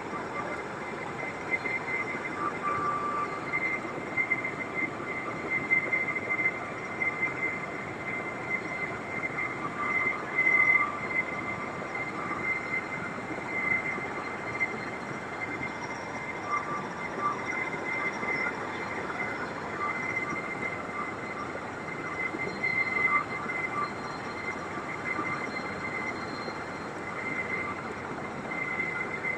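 US Marine helicopters running: a steady engine-and-rotor noise with a high turbine whine that wavers slightly.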